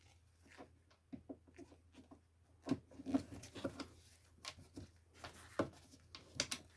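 Scattered light clicks, taps and rubbing of small parts being handled during the disassembly of an electric ceramic heater, over a faint steady hum.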